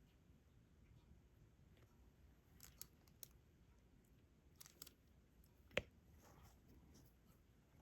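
Faint, scattered small clicks and taps of diamond painting: a stylus picking up resin drills and pressing them onto the adhesive canvas. The sharpest click comes a little before six seconds in.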